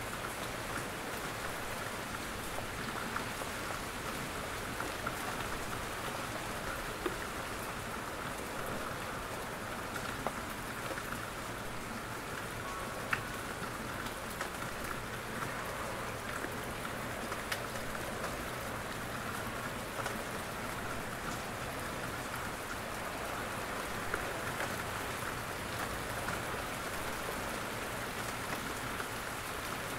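Steady rain falling on a forest, with a constant patter and scattered single drops landing from the trees.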